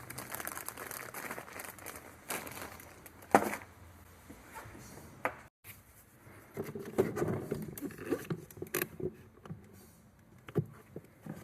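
Handling noises from changing the vacuum switch on a carpet extractor: irregular rustling and scraping with a few sharp clicks and knocks.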